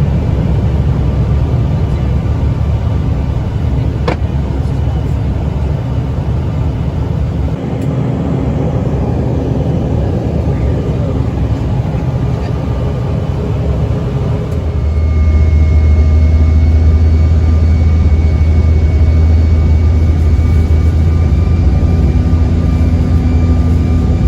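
Cab noise of a 1977 Chevy truck cruising at highway speed: steady engine, road and wind noise. About fifteen seconds in, a strong low drone joins and holds steady.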